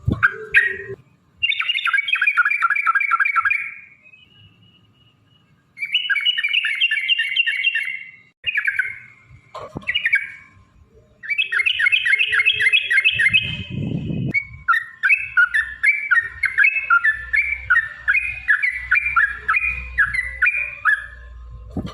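Yellow-vented bulbul (trucukan) song: bursts of rapid, repeated chattering notes in phrases of a few seconds, ending in one long run of quick notes over the last several seconds.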